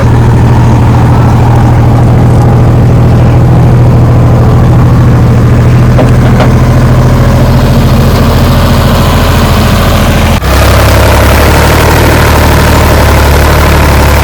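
Sonalika 47 RX tractor's diesel engine running steadily and loudly. About ten seconds in the sound breaks off for an instant and comes back with a deeper, heavier note.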